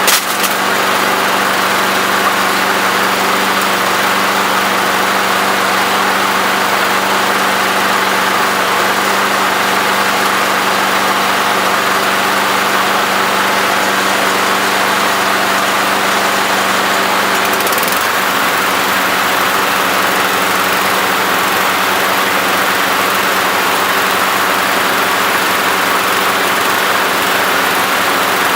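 Small Briggs & Stratton lawn mower engine running steadily just after being started. Its pitch drops slightly about eighteen seconds in.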